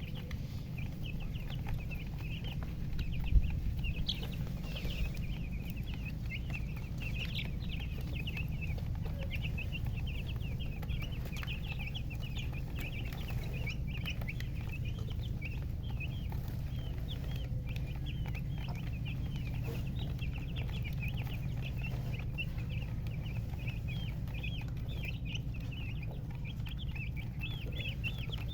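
Chicks peeping: a dense, continuous run of short high chirps from several birds at once, over a steady low hum. A single sharp knock about three seconds in.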